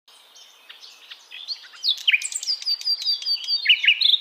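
Songbirds chirping and singing: faint, scattered notes at first, then from about two seconds in a loud, quick run of short whistled notes and downward glides.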